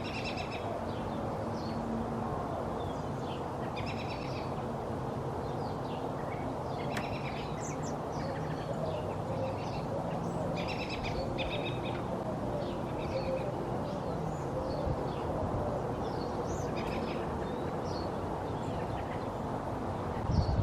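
Several American robins chirping and singing in short repeated phrases throughout, over a steady low background rumble. A low thump comes right at the end.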